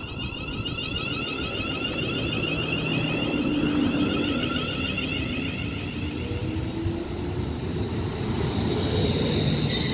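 Pair of Class 350 Desiro electric multiple units pulling away, the wheels rumbling on the rails under a steady whine from the traction motors that slowly rises in pitch as the train gathers speed.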